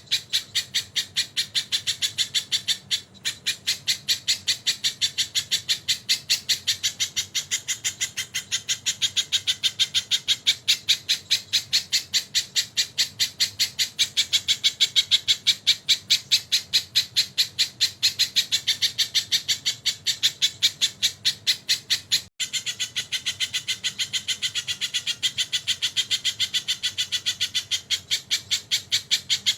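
Sogon songbird calling in a fast, unbroken string of sharp, high-pitched notes, several a second, typical of its tengkek (kingfisher)-style call. There are two very brief breaks, about 3 seconds in and again near the end.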